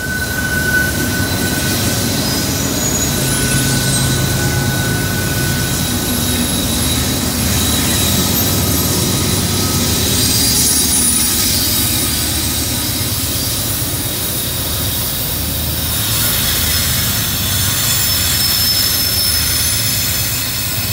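Diesel freight locomotives working hard up a steep grade as they pass close by: a deep, steady engine drone with thin, high wheel squeals over it. Sand is being dropped on the rails to stop the wheels slipping, and toward the end the cars roll past.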